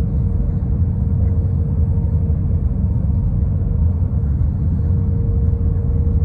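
Steady low rumble of an Airbus A320 airliner heard from inside the passenger cabin on approach: engine and airflow noise, with a faint steady mid-pitched hum running through it.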